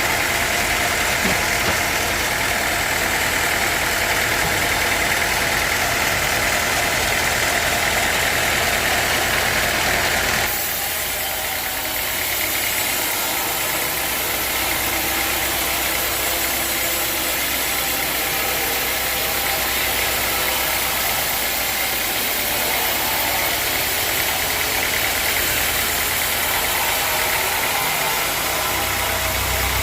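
Sawmill machinery running steadily, with an abrupt change in its sound about ten seconds in.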